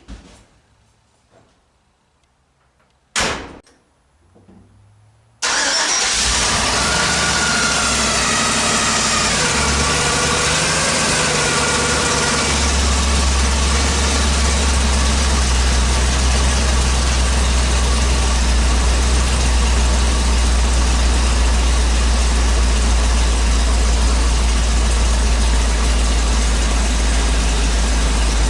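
1972 Chevy truck engine firing right up on a cold start about five seconds in, after a short sharp knock, then running at a steady idle. A weird little whining noise wavers over the engine for a few seconds after it catches, which the owner takes to be probably just the power steering.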